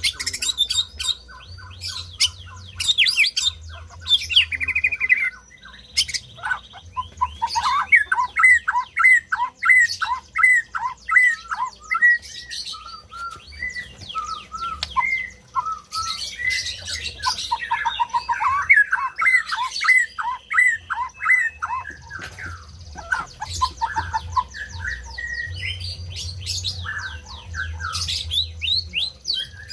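White-rumped shama (murai batu) singing a long, varied song of whistled phrases, glides and rapid runs of repeated notes, with few pauses.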